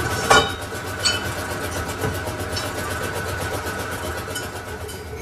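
Lathe running with a steady hum and a thin whine. A sharp metallic knock comes about a third of a second in, with lighter clicks after.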